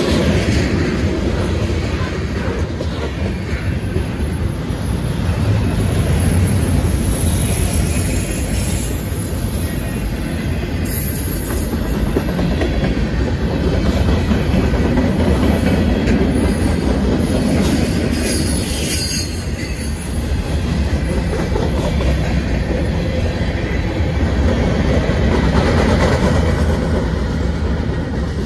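Union Pacific freight train's covered hoppers and boxcars rolling past: a steady rumble and clatter of steel wheels on the rails, with brief high squeals now and then.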